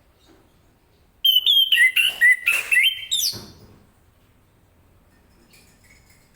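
Orange-headed thrush (anis kembang) in full song: a loud burst of varied, quickly changing whistled phrases starts about a second in and lasts about two seconds. Softer, scattered notes follow near the end.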